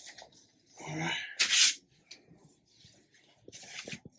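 A person sneezing once: a short voiced intake, then a loud hissing burst. A few sharp clicks and a rustle follow near the end.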